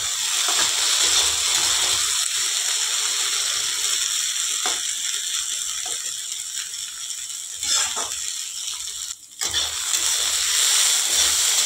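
Okra with onions and green chillies sizzling as it fries in a kadhai, stirred with a metal spatula that scrapes across the pan a few times. The sound briefly drops out about nine seconds in.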